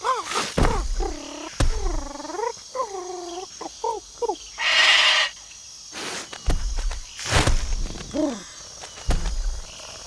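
A bird calling noisily: a quick run of repeated calls, each dipping and rising in pitch. A harsh hissing squawk comes about halfway, then one falling call near the end, with scattered knocks in between.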